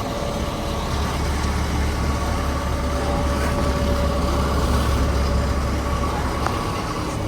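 Highway bus engine idling: a steady low rumble with a faint, even whine above it.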